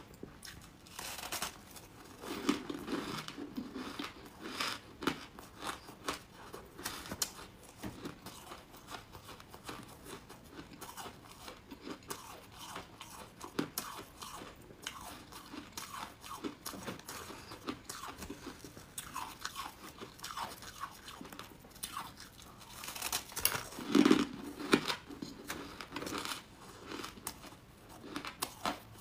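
Crunching and chewing of crunchy buckwheat chunks, irregular bite after bite, with the loudest crunches a little over three-quarters of the way through.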